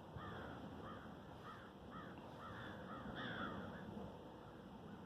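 A bird calling: a quick run of about eight short calls over the first three and a half seconds, over faint outdoor background noise.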